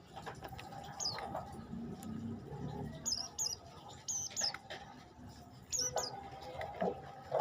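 Prenjak lumut, a small songbird, giving short, high chirps that drop quickly in pitch. They come singly and in quick pairs, mixed with some lower notes.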